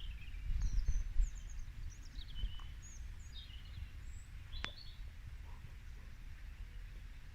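A small songbird singing a quick string of short, high chirps and warbles over the first few seconds, over a low outdoor rumble, with a single sharp click about halfway through.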